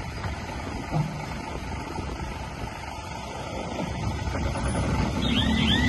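Heavy earthmoving machinery running at a worksite, a steady low engine rumble. Near the end a rapid run of short high chirps starts, about three a second.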